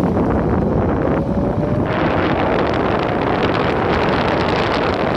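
Loud, steady wind buffeting on a phone microphone during an electric skateboard ride, over the rumble of the board rolling, with a faint rising whine in the first two seconds.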